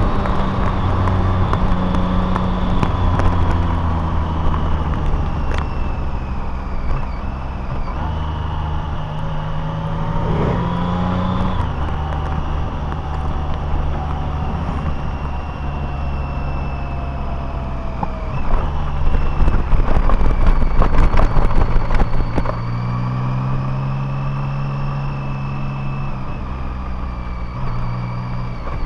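Car engine and road noise while driving, the engine's pitch rising and falling as speed changes, with a louder, rougher stretch about two-thirds of the way through.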